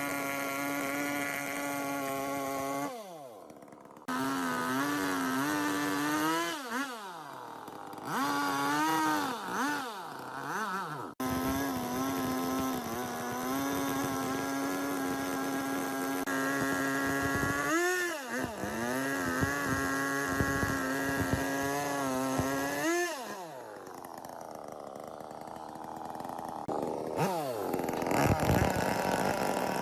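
Chainsaw running at high revs, its pitch dropping as the throttle is let off and climbing back as it is opened again, several times. The sound changes abruptly in a few places, as where one clip is cut to the next.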